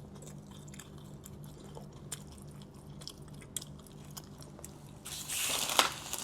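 A person chewing a soft cheese-ball snack close to the microphone, with small scattered wet clicks over a steady low hum. Near the end comes a brief louder rustling noise with a sharp click.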